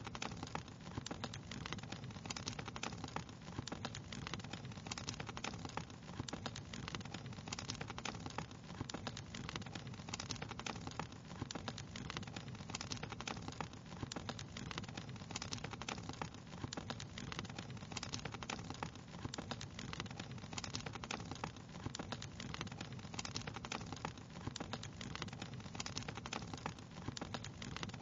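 Wood fire crackling steadily, with dense, irregular small pops and snaps over a low, even rumble.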